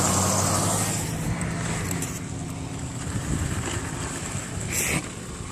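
Pickup truck engine running, loudest at the start and then easing back to a steady rumble.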